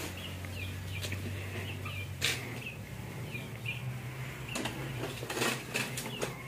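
Small birds chirping, short high chirps repeating on and off, with a few sharp knocks in between, the loudest one near the end.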